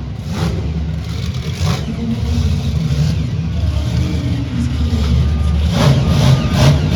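Monster truck engine running and revving, a loud deep rumble that rises and falls in pitch.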